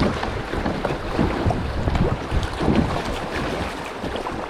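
Rushing, splashing river water around a kayak running shallow rapids, with irregular splashes and knocks throughout and wind buffeting the microphone.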